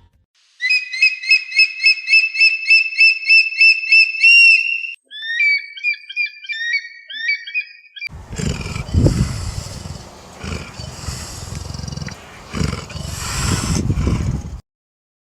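A bird singing a fast run of repeated whistled notes, about three a second, then a few varied short chirps; from about eight seconds in a tiger roars and growls in rough swelling bursts, cutting off near the end.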